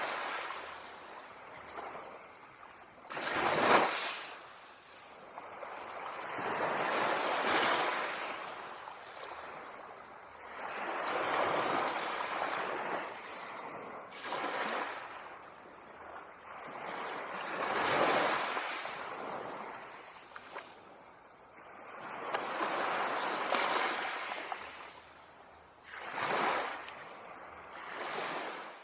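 Ocean waves breaking on a shore, the surf swelling and falling away in repeated surges every three to four seconds.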